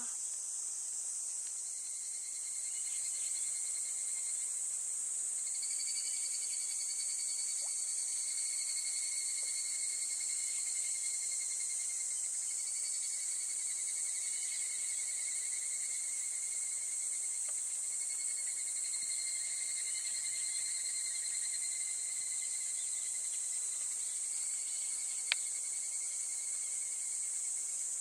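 Outdoor insect chorus: a steady high-pitched buzz throughout, with a lower trill that repeats in phrases several seconds long. One sharp click sounds near the end.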